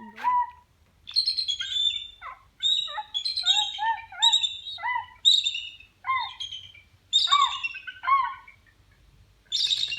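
Bald eagle calling: a long series of high, chirping calls that fall in pitch, a few each second, with a short pause near the end.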